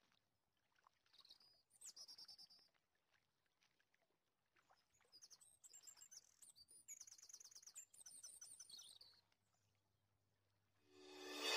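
Faint bird chirps: a short burst of quick repeated high notes, then after a pause a longer run of chirps. Music begins to fade in at the very end.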